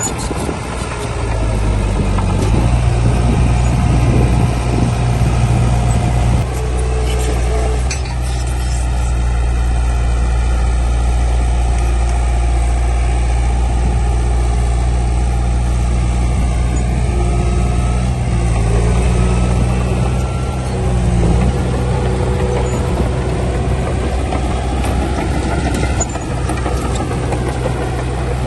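Heavy diesel engine of earth-moving machinery running steadily at a low, deep pitch. It grows louder about two seconds in and dips briefly twice, around six and eight seconds.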